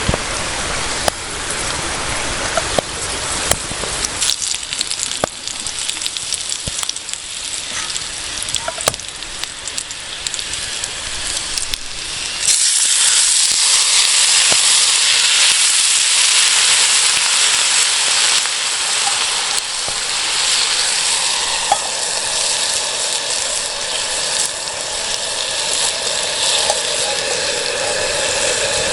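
Food sizzling in a hot frying pan over a wood fire, with scattered crackles. About twelve seconds in the sizzle jumps suddenly to a much louder, steady hiss as more food or liquid goes into the hot pan.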